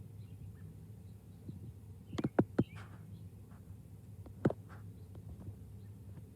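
Birds at a feeder: three sharp knocks in quick succession about two seconds in and one more a couple of seconds later, over faint bird chirps and a steady low hum.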